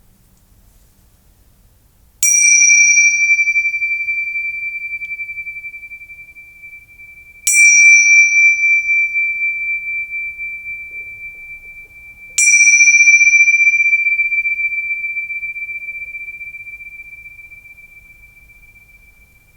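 A small meditation bell or chime struck three times, about five seconds apart. Each strike rings on one clear high note that fades slowly, with brighter overtones dying away first.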